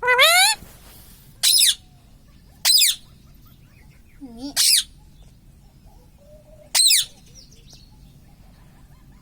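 Pet Indian ringneck parakeet giving five loud, sharp screeching calls with sweeping pitch, the first about half a second long and the rest shorter, a second or two apart.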